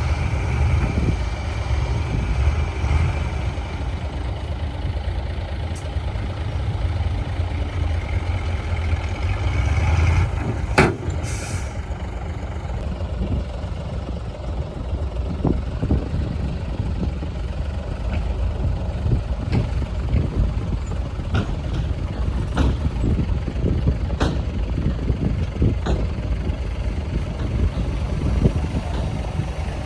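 Heavy diesel earthmoving machinery running with a steady low engine rumble. A sharp knock and a short hiss come about a third of the way in, followed by scattered metallic clanks.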